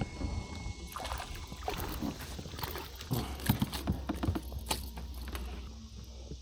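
Irregular small clicks and knocks of gear being handled in a kayak, over a steady low rumble.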